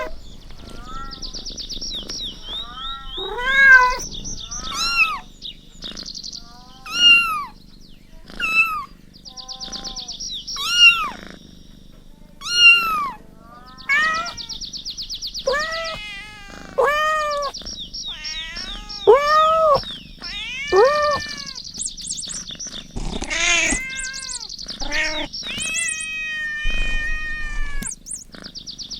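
Several kittens mewing in short, high-pitched calls, each rising and falling, one after another about every second and sometimes overlapping. A faint, fast-pulsing high background sound comes and goes behind them.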